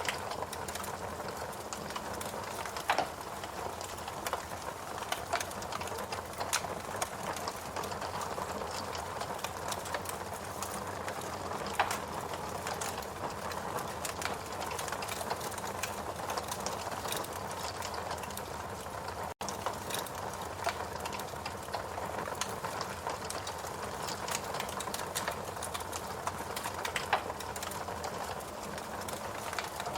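Fireplace crackling: scattered sharp pops and snaps over a steady hiss, with a momentary dropout about two-thirds of the way through.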